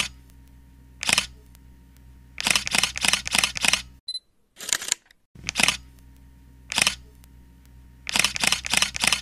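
Camera shutter clicks, some single and some in a fast burst of four, with a short high beep like an autofocus confirmation. The same pattern repeats about every five and a half seconds, like a looped shutter sound effect.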